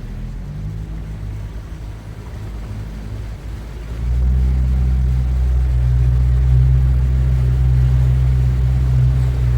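Motorboat engine running with a low steady drone that jumps louder about four seconds in, then holds at a steady pitch.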